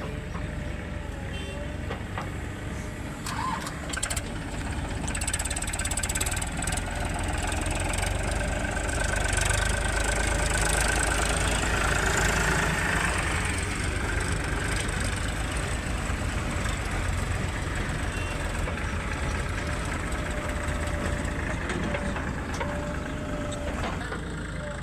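Engines of heavy machinery running steadily, a loader and tractors at work, growing louder about ten seconds in and then easing back.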